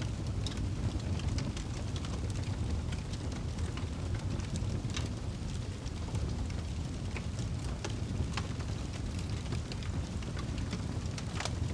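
Wood fire in a fireplace crackling, with scattered sharp pops over a low steady rumble of the flames; one of the louder pops comes near the end.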